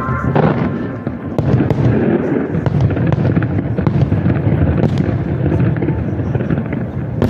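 Fireworks display going off without a break: a dense mass of low bangs with many sharp cracks scattered through it.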